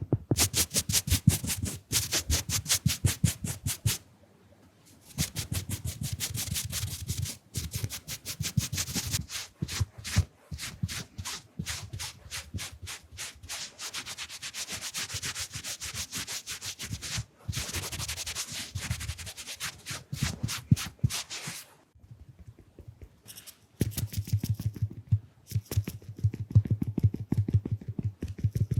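Makeup brushes and sponges rubbed quickly against the microphone in rapid, scratchy strokes several times a second, with two short pauses.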